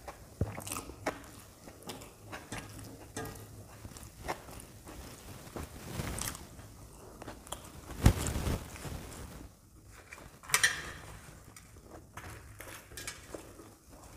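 Close-up eating sounds: biting into and chewing fried puri bread with potato curry, with many short wet mouth clicks. A sharp bite is loudest about eight seconds in, and another comes a couple of seconds later.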